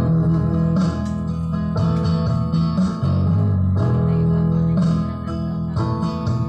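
Instrumental break in a slow song: guitar playing sustained chords over a bass line, the chords changing about once a second, with no singing.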